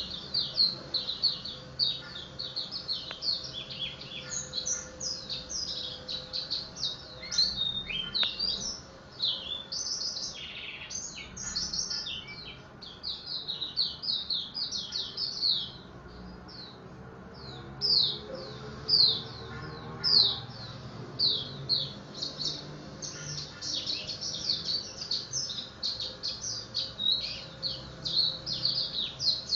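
Pleci (white-eye) songbird singing a fast, continuous run of short, high, downward-sweeping chirps.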